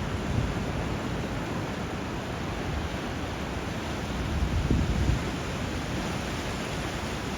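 Steady rush of surf and flowing water where a river meets the sea, with a low rumble underneath that swells briefly about five seconds in.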